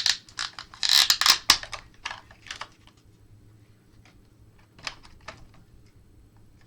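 Rapid clicking and rustling of small plastic parts and packaging being handled, dense for the first three seconds, then a few scattered clicks about five seconds in.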